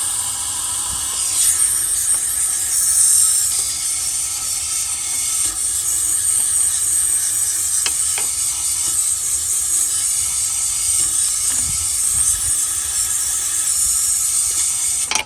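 Aerosol throttle body cleaner spraying in one long continuous hiss into the throttle body and intake, cutting off suddenly near the end.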